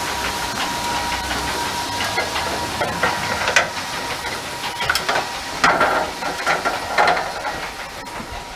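Grain auger running: a steady hiss of barley moving through it with a faint steady hum, overlaid from about three seconds in by scattered knocks and clatters. The sound fades toward the end.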